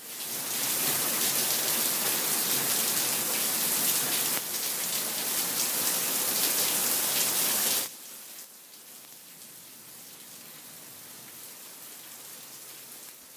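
Steady heavy rain, which drops abruptly to much quieter rain about eight seconds in.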